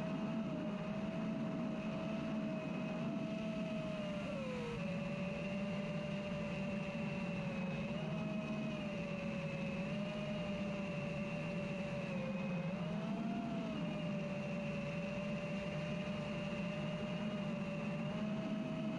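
FPV racing drone's brushless motors and propellers whining steadily. The pitch wavers with throttle: a sharp drop about four and a half seconds in, then small dips and swells.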